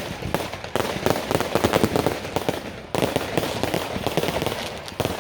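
Fireworks going off in a dense barrage of rapid, overlapping bangs and crackles, with fresh volleys starting about a second in and again about three seconds in.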